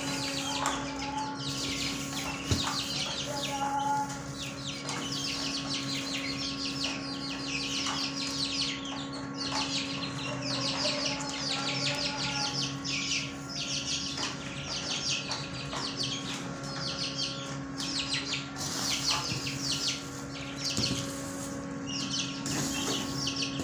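Many caged birds chirping continuously in quick overlapping bursts, with a few lower calls now and then.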